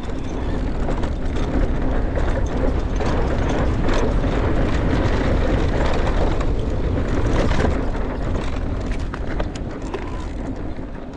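Mountain bike descending a dirt trail at speed: wind rushing over the microphone and tyres rolling on dirt, with many short rattling clicks from the bike. The noise is loudest in the middle and eases off near the end.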